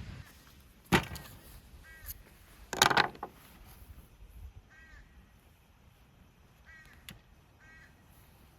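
Two sharp knocks, about one and three seconds in, the second a brief clattering cluster, with short bird calls repeating in the background.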